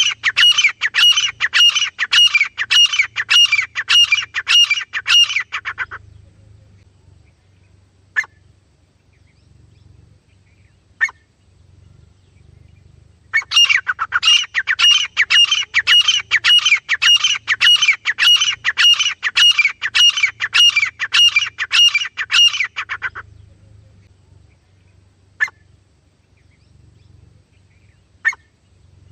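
Teetar (francolin) calling: long runs of loud, sharp, rapidly repeated notes at about two a second. Two runs are separated by a pause, with a few single notes in between.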